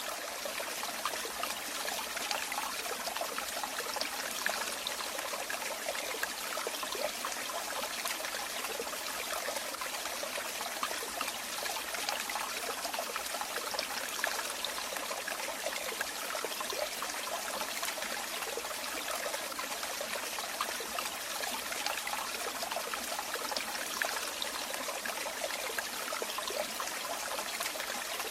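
Running water splashing and trickling in a steady stream, with small flickers of individual splashes and no pauses.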